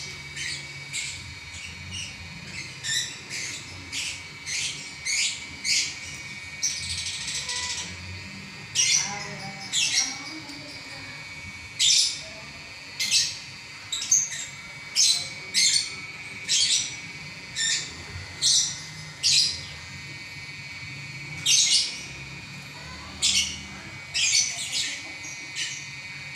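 Lovebird singing a long, unbroken chattering song: a string of short, shrill, high chirps about one a second, with a brief rapid chatter about a quarter of the way in.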